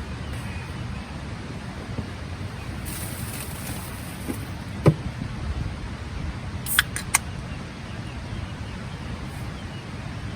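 Low steady rumble of a Suzuki Jimny JA11 running, with a sharp click about halfway through and two more a couple of seconds later.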